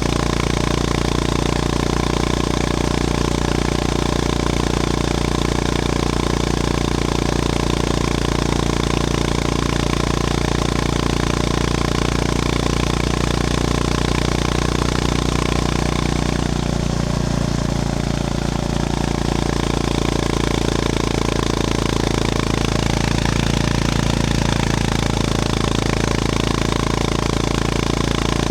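Honda GB350S's air-cooled single-cylinder engine running steadily. Its pitch dips briefly about two-thirds of the way through, then steadies again.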